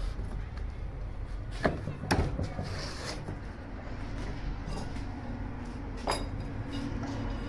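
A few sharp knocks and clinks of hard parts being handled, about two seconds in and again near six seconds, over a steady low hum.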